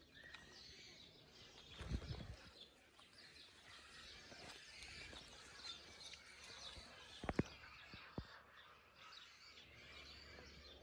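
Faint chirping of small birds throughout, with a low thud about two seconds in and a few short knocks later on.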